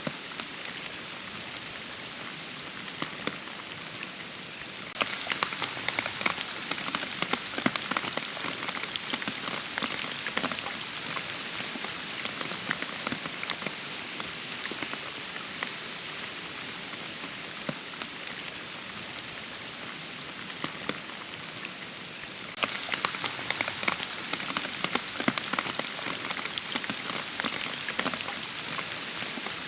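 Steady rain falling in a forest, with many separate drops pattering close by. It turns heavier suddenly about five seconds in, eases back, and grows heavier again some seconds before the end.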